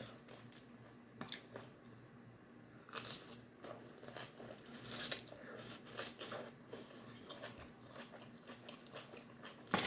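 Close-up eating sounds: someone biting and chewing crunchy food, with irregular crisp crunches, the loudest about three, five and six seconds in and again near the end.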